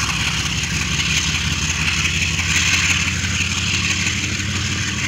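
Diesel-electric locomotive engine running steadily under throttle: a deep, even engine note with a hiss above it.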